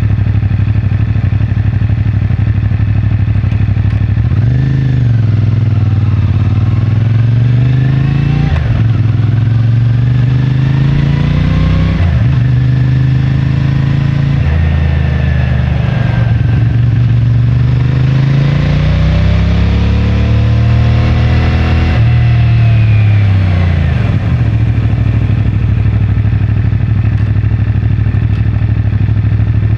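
CFMoto 450MT's parallel-twin engine idling for about four seconds, then pulling away through several gear changes, its note climbing and dropping back at each shift. It winds down near the end and settles to a steady idle for the last five seconds.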